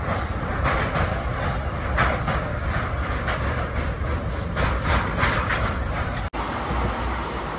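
Passenger train running, its wheels clattering over the rail joints, heard from inside the carriage. The sound drops out for an instant about six seconds in.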